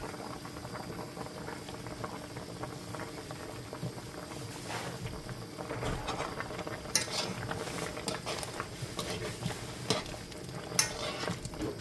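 Ackee and saltfish cooking in a pot while a spoon stirs it, with a steady sizzle and many small scrapes and clicks of the utensil against the pot. There are a few sharper clinks about seven seconds in and again near the end.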